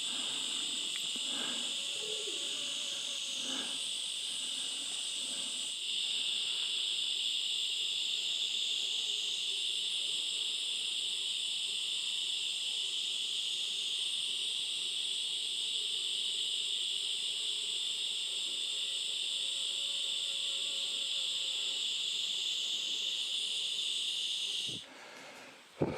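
Dense, steady chorus of jungle insects: a shrill, continuous drone that gets a little louder about six seconds in and cuts off suddenly near the end.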